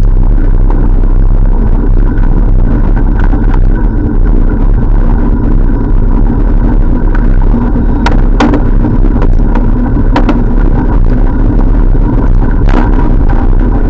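Steady riding noise from a bike-mounted camera: heavy wind rumble on the microphone under a constant hum, with a few sharp clicks in the second half.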